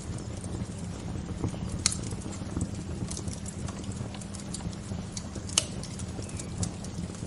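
Wood fire crackling with frequent small snaps and a couple of louder pops, about two seconds in and again about five and a half seconds in, over a steady low rumble.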